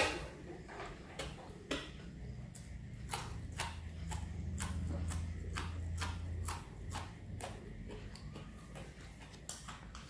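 Close-up crunching of a raw yardlong bean being bitten and chewed: a sharp snap at the very start, then a run of crisp, irregular crunches, roughly two a second.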